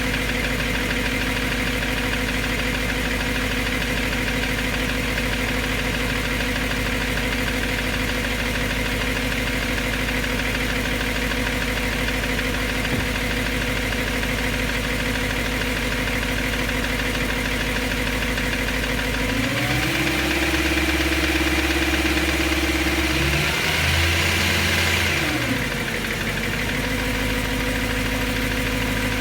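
BMW M3's S65 V8 idling with a ticking noise that still sounds abnormal to the owner after new rod bearings. About two-thirds of the way in the engine is revved up and held higher for several seconds, rises once more, then drops back to idle.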